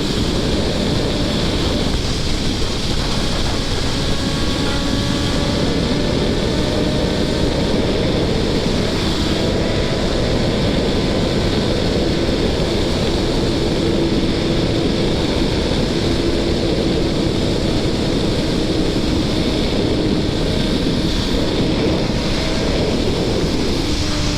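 Wind rushing over a helmet-mounted microphone while riding a Kawasaki ZX-10R sportbike, with its inline-four engine running underneath, its pitch drifting slowly up and down.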